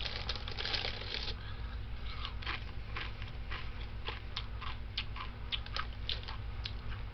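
Someone eating crunchy snack chips close to the microphone: a brief rustle in the first second or so, then a run of irregular crunches while chewing.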